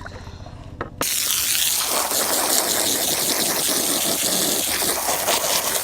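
Loud, steady rushing of flowing water, starting abruptly about a second in.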